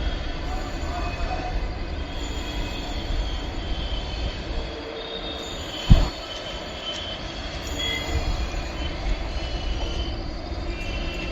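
Passenger train coaches rolling slowly over the rails with a steady low rumble and high, intermittent wheel squeal. A single sharp knock sounds about six seconds in.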